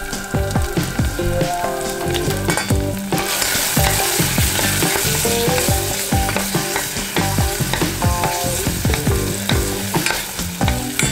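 Tomato paste frying in hot oil in a stainless steel saucepan, sizzling as a spoon stirs it through the pan. The sizzle gets louder about three seconds in.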